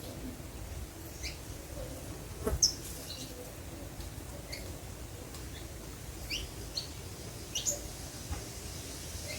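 Small birds chirping, short high calls scattered irregularly through, over a steady low background. A single knock about two and a half seconds in is the loudest sound.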